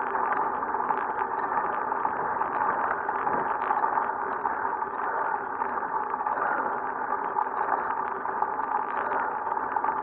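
Steady riding noise from a road bicycle climbing a hill: wind and tyre noise with a faint steady hum underneath.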